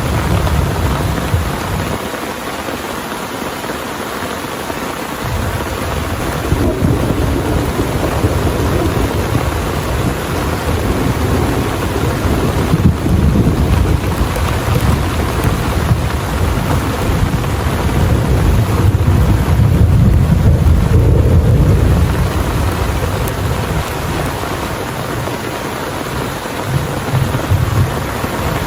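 Heavy rain pouring steadily, with low thunder rumbles that swell and fade, loudest about two-thirds of the way in.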